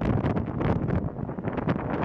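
Gusty wind buffeting the microphone, a steady rush of noise that swells and dips.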